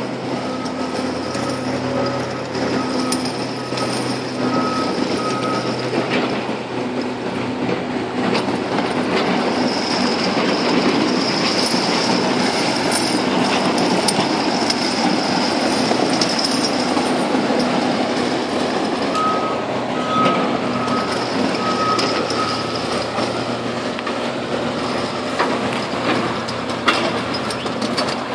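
Heavy earthmoving machine's engine running steadily under load, with a rough rattling noise over it. A reversing alarm beeps in a regular series during the first five seconds and again about two-thirds of the way through.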